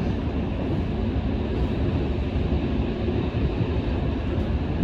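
Renewed Odakyu 1000 series electric train running steadily: an even low rumble of wheels on rail, with a faint steady motor tone over it.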